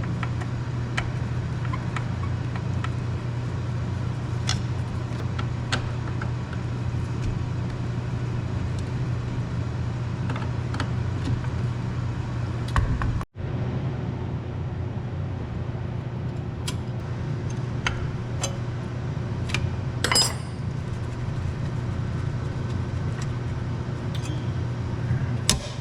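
Scattered light metallic clicks and clinks of wrenches and fittings being worked on a steam pressure washer, over a steady low hum. One clink about two-thirds of the way through is louder than the rest.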